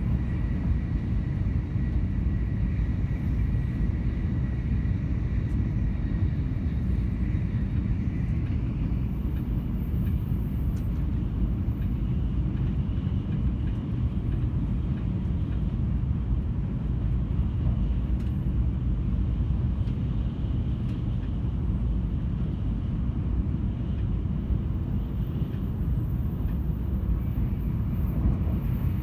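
Steady low rumble of a moving vehicle running at an even pace, with a faint thin whine that fades out about eight seconds in.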